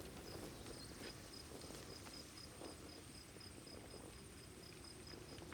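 Faint insect chirping: a high, regular chirp repeating about three to four times a second over a steady thin high tone and a low outdoor ambience.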